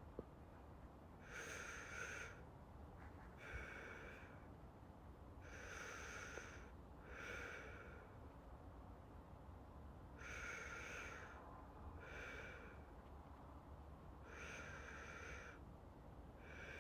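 Slow, soft breathing close to the microphone: four breaths, each a longer inhale followed by a shorter exhale, about every four seconds, the steady rhythm of someone settling into sleep.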